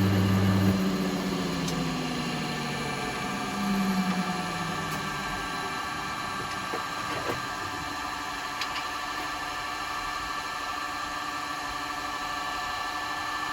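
Bench grinder switched off after sharpening a turning tool: its motor hum cuts off about a second in and the wheel winds down slowly over a few seconds. A steady machine hum carries on underneath.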